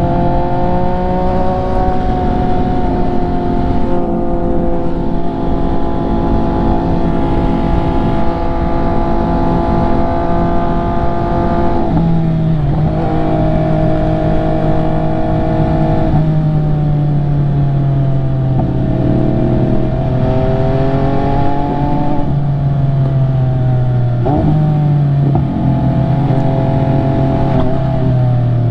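MV Agusta F3's inline-three engine running under way, its pitch climbing and sinking with the throttle, with several sudden steps in pitch from gear changes.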